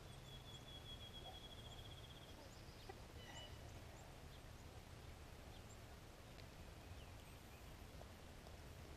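Near silence with faint distant birdsong: a high, rapid trill in the first two seconds, then scattered short chirps.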